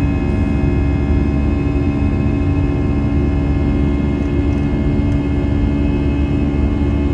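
Airbus A320-200's jet engines running steadily, heard inside the cabin: a loud, even deep rumble with several constant engine tones over it.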